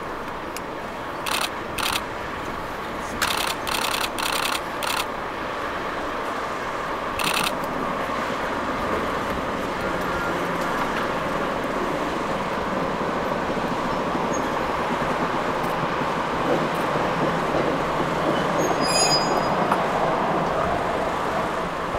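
Slow train of rail cars being pushed along the track, with a steady rumble of wheels on rails that slowly grows louder. Several short sharp sounds come in the first few seconds, and faint high squeals come near the end.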